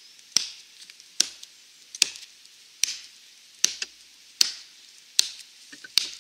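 Wetterlings Wildlife hatchet chopping into a dead log: eight evenly spaced strikes a little under a second apart, each a short knock of the steel head biting into the wood.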